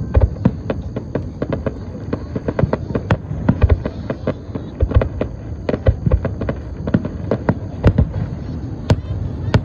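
Fireworks going off in rapid succession: many sharp bangs and cracks, several a second and irregular, over a low rumble.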